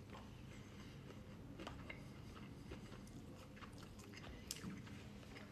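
Faint, close-up chewing of a mouthful of couscous salad, with a few soft clicks scattered through.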